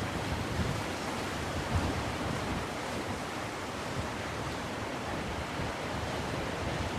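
Black Sea surf washing onto the shore, a steady rushing wash, with wind buffeting the microphone in low gusts, strongest about two seconds in.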